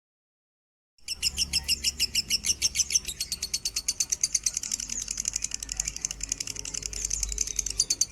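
Lovebird chirping in a fast, even run of sharp, high-pitched chirps, many to the second, starting about a second in after complete silence.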